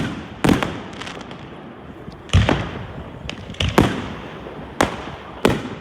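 Fireworks bursting: about six sharp bangs a second or so apart, each trailing off in an echo, with a few smaller cracks between them.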